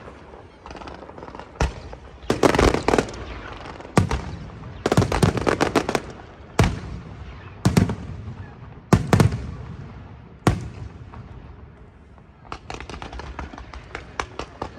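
Aerial fireworks shells bursting: a series of loud bangs, some coming in quick clusters, each trailing off in a rumble. From about twelve seconds in comes a run of rapid crackling pops.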